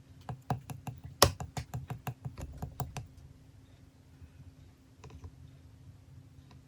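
A quick run of sharp tapping clicks, several a second for about three seconds with one louder click among them, then a few scattered clicks later on.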